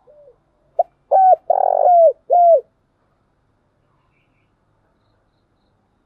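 Spotted dove cooing: a short note, then three loud coos with the middle one the longest, each dropping in pitch at its end.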